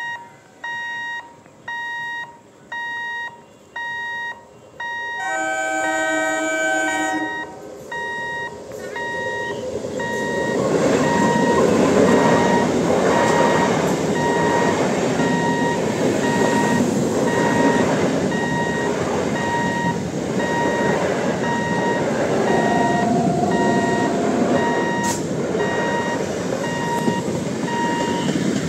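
A level-crossing warning beeper sounds a short two-note beep about once a second. About five seconds in, an electric multiple-unit (EMU) local train's horn sounds a chord for about two seconds. From about ten seconds in, the train runs loudly through the crossing with a steady wheel-on-rail rumble, the beeps going on over it, and a brief horn note comes about two-thirds of the way through.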